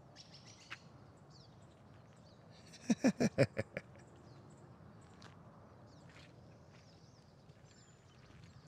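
Birds chirping, with a quick loud run of about seven harsh calls about three seconds in.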